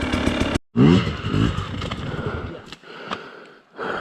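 Off-road motorcycle engine running, then after a brief break it revs up for a moment and dies away about two and a half seconds in. A couple of clicks follow, and a loud breath near the end.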